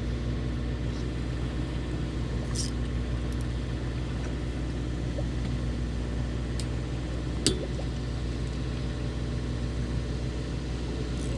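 Fishing boat's engine running steadily at idle, a low rumble, with a couple of brief sharp clicks about two and a half and seven and a half seconds in.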